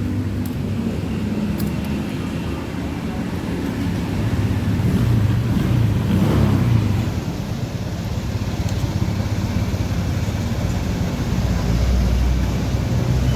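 Honda Vario 125 scooter's single-cylinder engine idling steadily, with a brief rise and fall in pitch about six seconds in.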